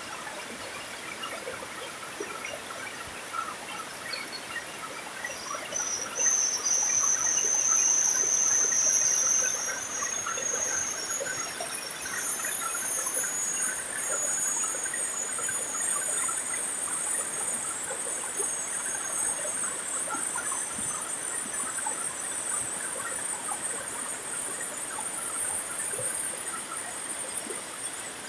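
Running water trickling and splashing after heavy rain, with a high, steady shrill sound over it that comes in about five seconds in, is loudest for a few seconds, then carries on at a higher pitch.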